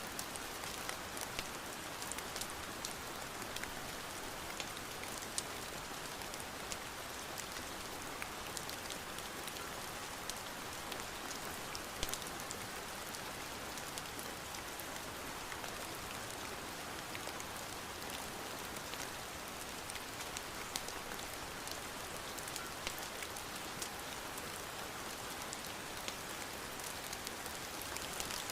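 Steady rain pattering, with scattered sharp ticks throughout and one louder tick about twelve seconds in.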